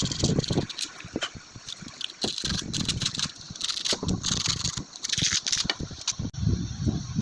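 Emery paper rubbed back and forth over the rotor of an air cooler's submersible water pump in irregular scratchy strokes, sanding off hard-water scale.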